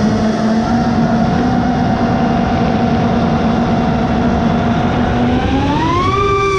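FPV racing quadcopter's Grinder v1 brushless motors and propellers whining steadily in flight over a steady rush of noise; near the end the whine rises in pitch as the throttle is pushed up.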